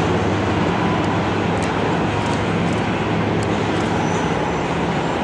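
Steady vehicle rumble with a low hum underneath and a few faint high clicks.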